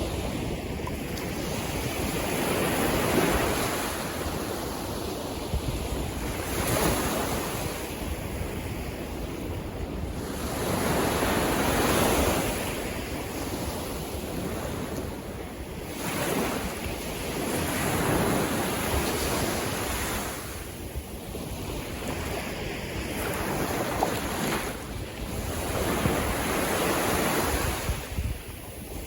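Sea waves breaking and washing in, swelling and fading every few seconds, with wind buffeting the microphone.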